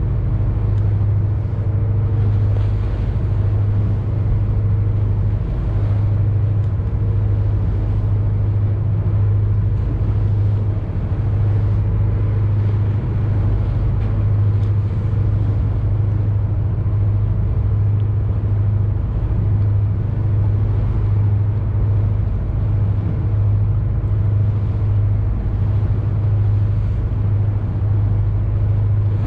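Boat engine running steadily: a deep, even drone with a strong low hum and a haze of rushing noise above it.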